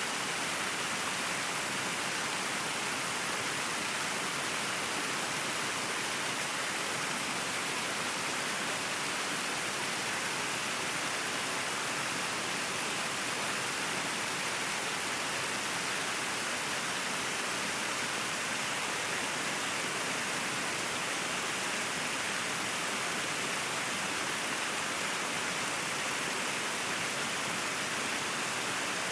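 River water flowing, a steady even rush with no distinct splashes or changes.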